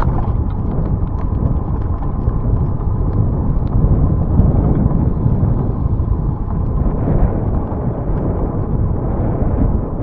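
Wind buffeting a camera microphone while cycling: a steady, rough low rumble, with a few faint ticks on top.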